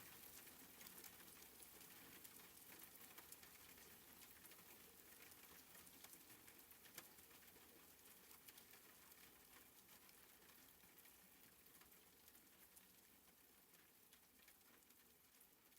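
Faint rain pattering, with many small drop ticks over a soft hiss, slowly fading out.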